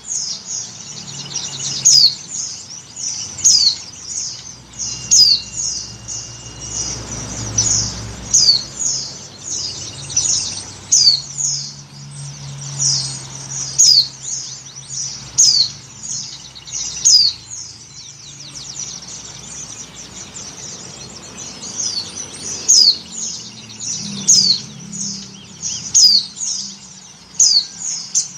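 A white-eye (pleci) giving a long series of high, down-slurred call notes, about one or two a second. The title presents it as a female in breeding condition calling to males. A low hum runs underneath.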